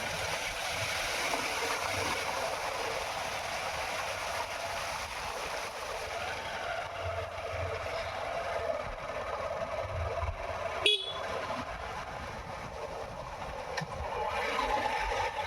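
A motorcycle riding along, its engine and road noise running steadily, with one short sharp sound about eleven seconds in.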